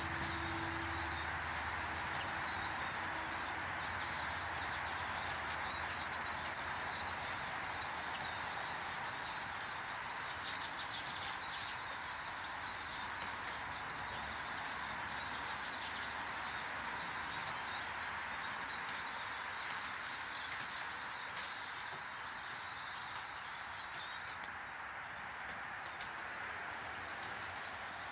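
Small birds at a bird table chirping now and then in short high calls, the sharpest about six seconds in and a few more near the middle, over a steady outdoor hiss.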